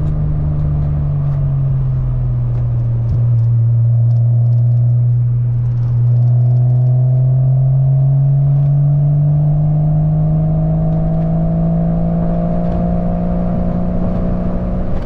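1997 Porsche 986 Boxster's 2.5-litre flat-six running through a cheap aftermarket cat-back exhaust: a steady note that dips slightly early on, then rises slowly as the car accelerates gently. A clip-on GoPro mount on the wind deflector rattles lightly over it.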